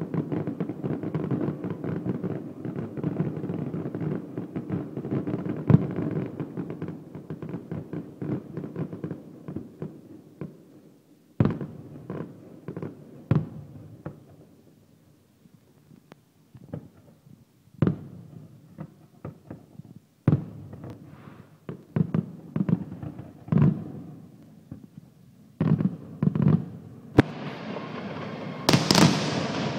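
Fireworks display: a dense run of rapid bangs and crackling that dies away after about ten seconds, then single shell bursts every second or two, then a loud burst of crackling near the end.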